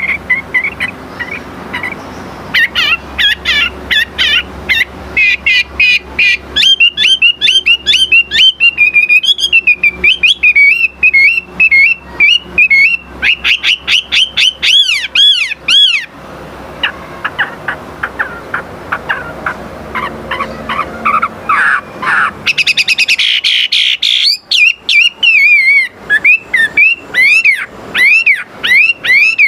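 Wambi songbird singing continuously: fast runs of clear whistled notes sweeping up and down in pitch, with a brief pause about halfway through and a burst of higher, denser chattering notes later on.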